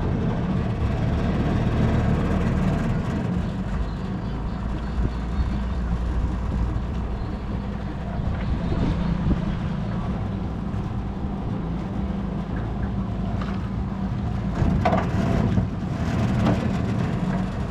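A boat's engine running steadily under way.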